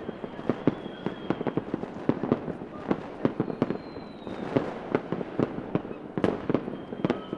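Fireworks going off: a quick, irregular string of sharp bangs and pops of varying loudness, with faint high whistles drawn out twice, near the start and around the middle.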